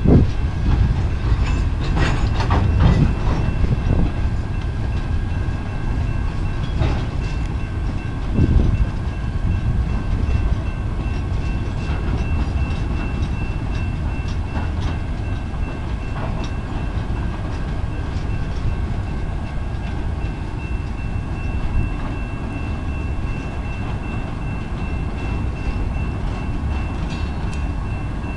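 Work train of empty flatcars rolling past at steady speed: a continuous rumble of steel wheels on rail, with sharp clanks and knocks mostly in the first nine seconds. A faint steady high whine runs underneath.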